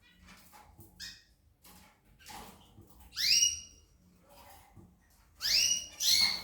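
Pet bird calling: three loud rising whistled calls, the first about three seconds in and two close together near the end, with faint chirps and clicks between.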